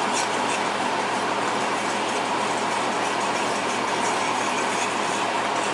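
Marsala wine sauce boiling in a pan on the stove: a steady hiss with faint irregular crackles as it reduces and thickens.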